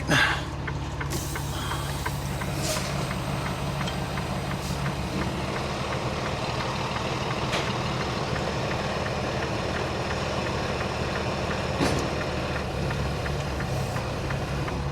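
Semi-truck diesel engine idling steadily, with a few faint clicks.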